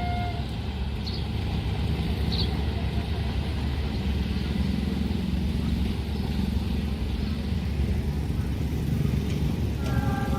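Steady low rumble of vehicles running past, with a multi-tone horn starting near the end.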